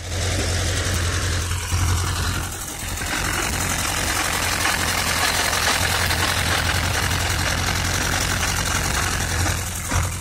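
1964 Porsche 356's air-cooled flat-four engine idling steadily.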